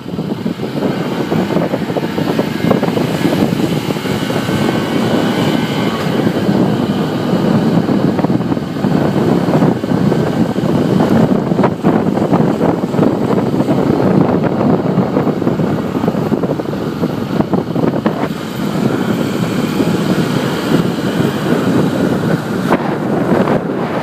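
Wind buffeting the microphone on a moving motorcycle, with the motorcycle's engine running underneath. It turns loud right at the start as the ride gets under way, then stays a steady rush.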